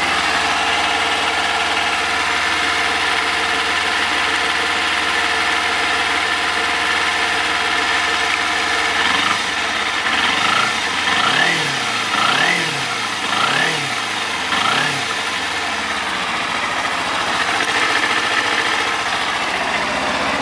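Kawasaki Ninja 250R's fuel-injected parallel-twin engine idling cold, a few minutes after a cold start at 2 °C with no choke. A little past the middle the throttle is blipped four times, about a second apart, each rev rising and falling back to idle.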